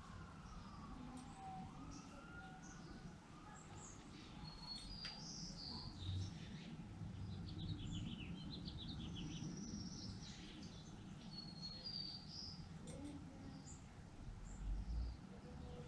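Several small birds chirping and calling, with short high whistles and a rapid trill about halfway through, over a steady low background rumble.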